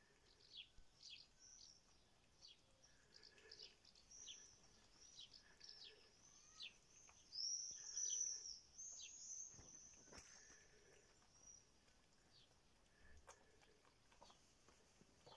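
Small birds chirping, a quick series of short, high, falling calls that grows busier and loudest around the middle, then thins out.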